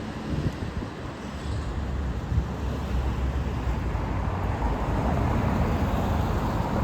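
Steady low rumble with an even background hiss and no distinct events.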